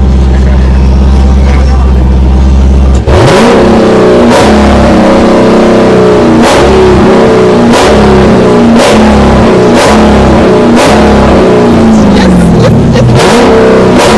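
American muscle car engine idling loud and low, then from about three seconds in revved again and again in short blips, roughly one a second, with sharp cracks from the exhaust.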